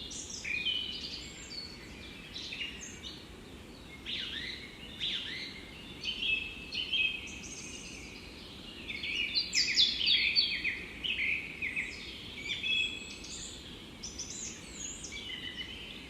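Songbirds singing in a forest: a steady stream of quick, high chirps and trills, busiest about two-thirds of the way through, over a low steady background hush.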